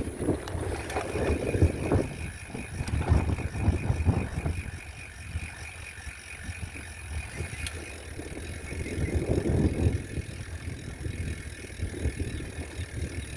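Bicycle freewheel ticking rapidly and evenly as the rider coasts, under gusts of wind buffeting the microphone.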